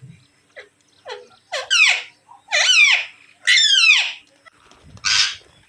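Pet green parrots giving a run of harsh screeching calls, five of them about a second apart, each sliding down in pitch; the last one, about five seconds in, is rougher and noisier.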